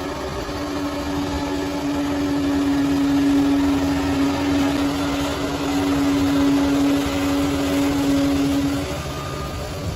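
Bulldozer's diesel engine running under load, with a steady whine that holds from about half a second in and drops away near the end.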